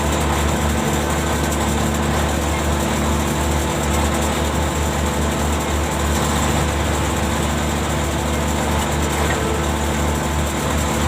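Ship's machinery running steadily: a deep, even hum that holds the same pitch throughout.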